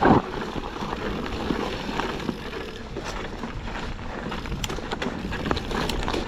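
Yeti SB160 mountain bike descending a very dry trail: tyres rolling and sliding over loose dirt and rock, with wind rushing on the microphone and scattered clicks and rattles from the bike.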